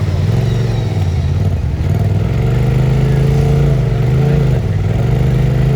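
Off-road 4x4's engine revving up and down repeatedly as the vehicle struggles to get through a stuck spot on the course.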